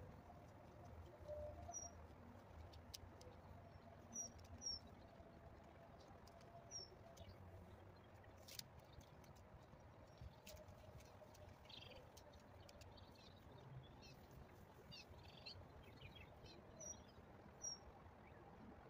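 Near-silent outdoor ambience with a bird's short, high chirps about half a dozen times, and a few faint clicks.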